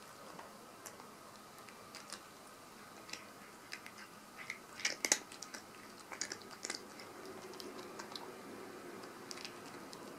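American Shorthair cat crunching crunchy dry cat treats, irregular crisp crunches with a quick flurry about five seconds in and another around six to seven seconds.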